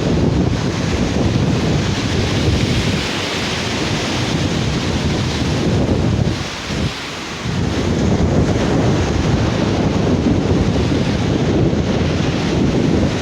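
Sea surf washing on a beach, with wind buffeting the microphone in a heavy rumble that lets up briefly a little past halfway.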